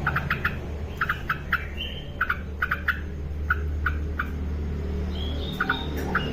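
Sooty-headed bulbul calling: quick clipped notes in twos and threes, with a brief higher whistle about two seconds in and again near five seconds, over a steady low hum.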